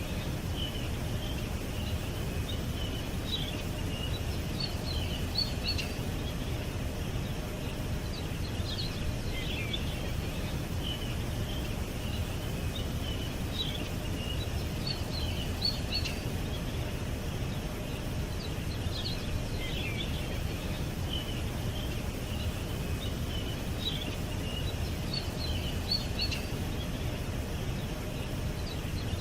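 Small songbirds chirping in scattered short bursts over a steady low rumble of outdoor background noise.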